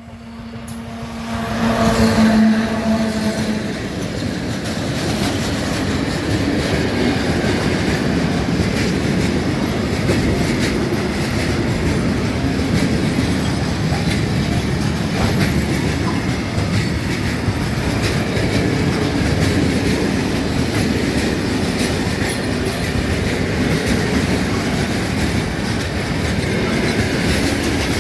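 Electric freight train passing close by. The long string of freight wagons makes a steady rumble with the clickety-clack of wheels over rail joints. A steady tone fades out in the first few seconds.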